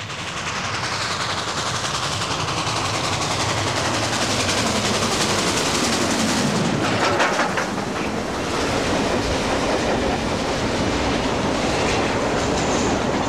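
Steam-hauled passenger train running past, wheels clattering over the rail joints, with a sound that sweeps down in pitch over the first few seconds. A brief burst of sharp clicking comes about seven seconds in.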